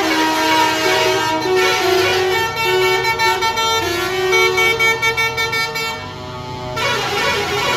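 Truck horns honking: several overlapping horn tones at different pitches that change in steps, with a run of short rapid toots in the middle.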